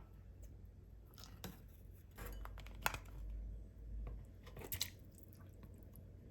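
Faint scattered clicks and light crunching handling noises, with a low rumble for a couple of seconds in the middle.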